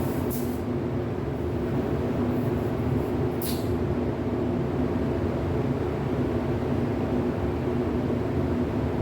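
Steady low mechanical drone, with two short hisses about a third of a second and three and a half seconds in.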